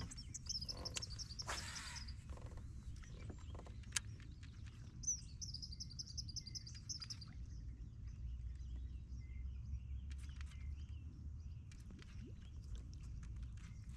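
A songbird singing two quick high trilled phrases of rapidly repeated notes, one at the start and one about five seconds in, over a steady low rumble and a few light clicks.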